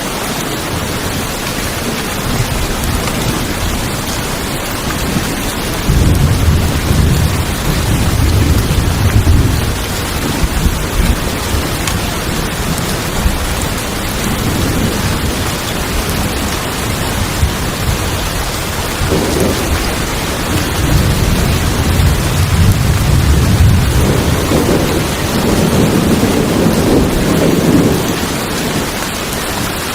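Steady heavy rain on a tin roof, with thunder rumbling low twice: one roll about six seconds in, and a longer one from about twenty seconds.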